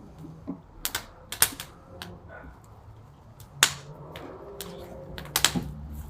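Fire crackling: irregular sharp pops and snaps, the loudest about a second and a half in and past halfway, over a low steady rumble.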